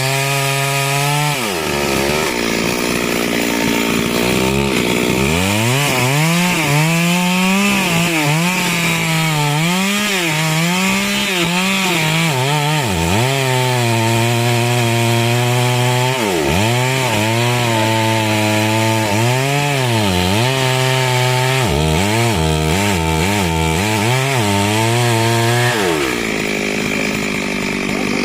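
Chainsaw engine running at high revs, its pitch dipping and recovering again and again as it works through wood. It falls back briefly about a second in, gives a run of quick throttle blips shortly before the end, and then drops toward idle.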